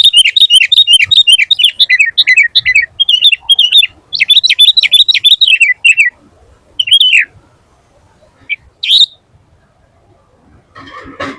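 Sooty-headed bulbul singing in rapid runs of short, falling whistled notes, with a short break in the song at about 3 seconds and again just before 4. After about 6 seconds the song thins to a few separate calls, and there is a brief rustling noise near the end.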